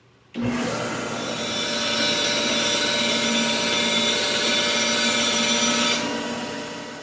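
A power tool's motor running steadily, starting abruptly and tapering away near the end.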